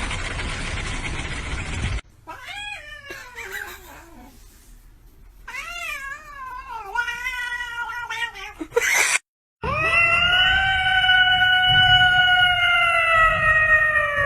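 A cat yowling: two wavering, drawn-out meows, then after a brief pause one long, steady caterwaul that drops in pitch as it ends. Before the cat, a steady rushing noise cuts off about two seconds in.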